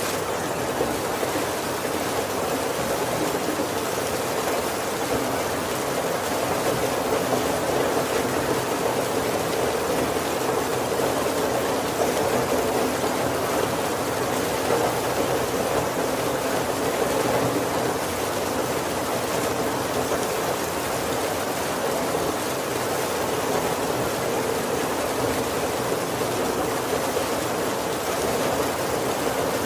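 Steady heavy rain falling on a roof, a dense, even hiss with a fuller patter in the low middle.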